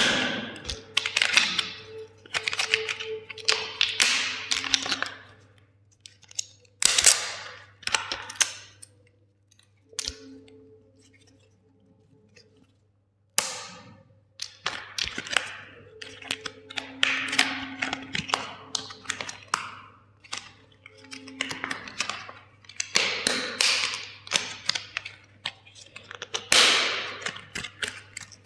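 Plastic toys cracking and snapping as they are crushed: rapid clusters of crackles and sharp snaps in bursts, with a lull about halfway through.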